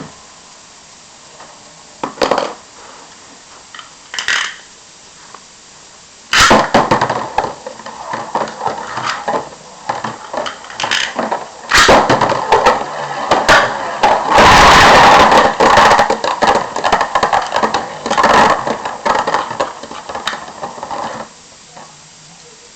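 Two Metal Fight Beyblade spinning tops, MeteoLdrago LW105LF and LightningLdrago 100HF, clashing and rattling in a plastic stadium: a loud, dense clatter of metal-wheel collisions from about six seconds in until about twenty-one seconds in, after a few single clicks.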